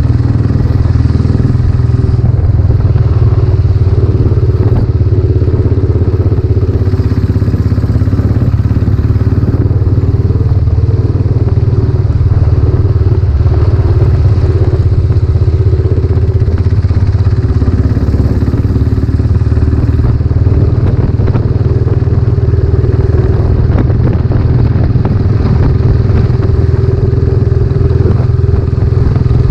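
Royal Enfield Classic 500's single-cylinder engine running steadily through a newly fitted silencer as the motorcycle is ridden along.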